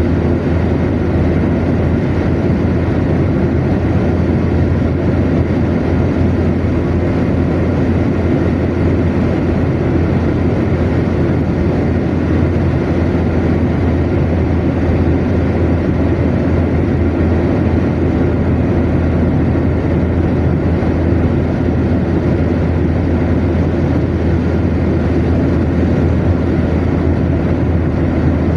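Car cruising at motorway speed: a steady, even rumble of tyre, road and engine noise with a deep low hum, unchanging throughout.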